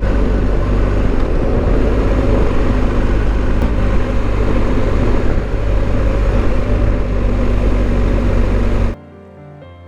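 BMW R1250GS motorcycle on the move: a loud, steady rush of wind over the microphone with a deep engine rumble beneath. It starts suddenly and cuts off abruptly about nine seconds in.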